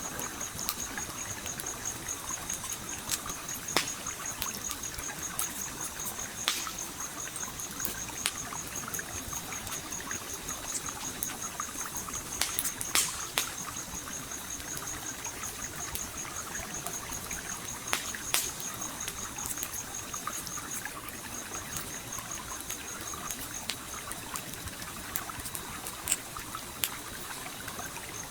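Stream flowing and trickling steadily while a campfire crackles, its wood popping sharply at irregular moments, with a few louder pops. A high, rapidly pulsing tone runs alongside and fades out near the end.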